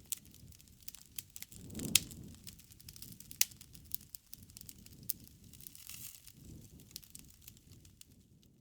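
Campfire crackling: irregular sharp pops and snaps over a low rumble of burning wood, with a loud pop about two seconds in and another about a second and a half later.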